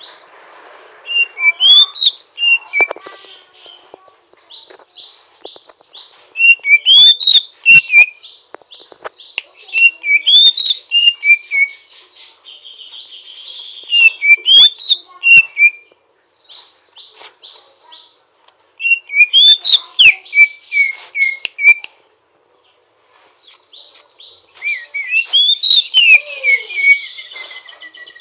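Greater green leafbird singing in bouts of rapid, rough high chattering mixed with short rising-and-falling whistled notes, with brief pauses between bouts. This is the harsh 'ngriwik' twitter of a bird still learning its full song.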